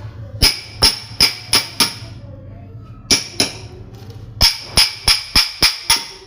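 Metal striking metal in sharp, ringing blows: five quick strikes, a pause, two more, then a run of six, about three a second. A low steady hum runs beneath.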